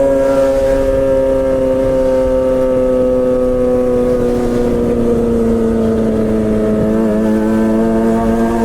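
Suzuki GSX-R600 (K7) inline-four running through a straight-piped M4 exhaust with no catalytic converter, held at high revs at a steady pitch, then easing slowly lower through the second half.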